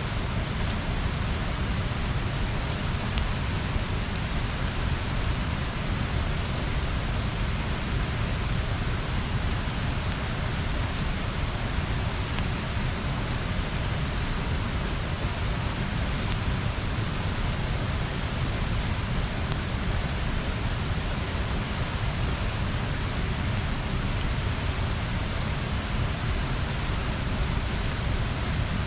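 Bonfire burning with a steady rushing noise and a few faint crackles.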